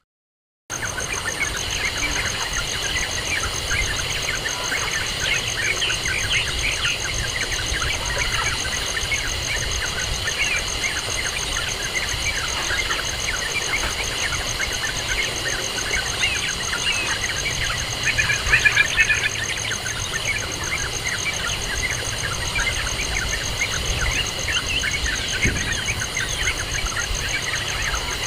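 Small birds chirping in rapid, overlapping short calls, with a louder flurry of chirps about two-thirds of the way through, over a steady high insect-like buzz and a low engine rumble.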